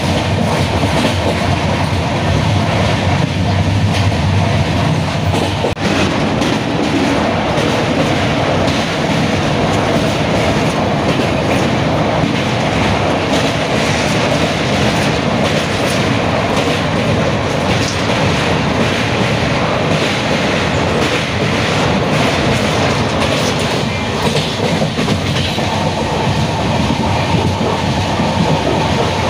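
Passenger train running at speed, heard from a coach window: a steady rumble and rush with the clatter of wheels over the rails.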